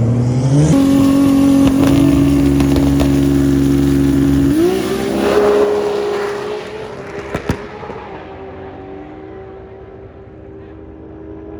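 Twin-turbo V10 Dodge Viper drag car held at a steady launch rpm on the start line for about four seconds. It then launches: the engine note jumps up and quickly fades as the car pulls away down the strip, with a couple of sharp pops as it goes.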